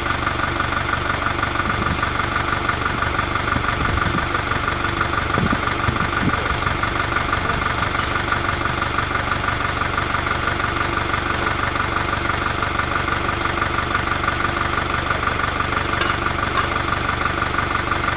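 An engine idling steadily, with a fast, even rhythm to its note.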